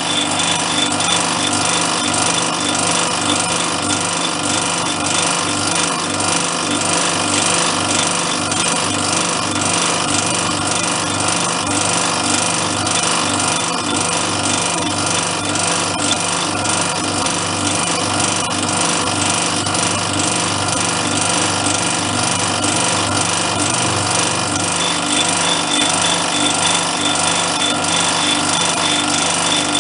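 Machine-driven drill bit cutting a hole through a workpiece: a steady motor hum under continuous, busy cutting noise, running without a break.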